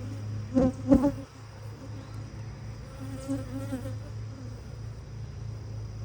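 Honeybees buzzing steadily around an open hive, with a louder buzz swelling briefly about three seconds in. Two sharp knocks close together about a second in are the loudest sounds.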